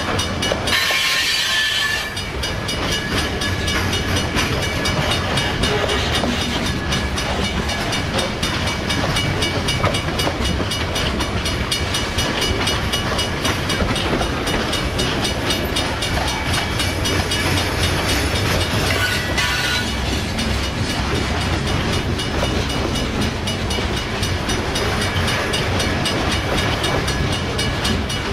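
Freight train rolling past: a steady rumble and clatter of railcar wheels on the rails.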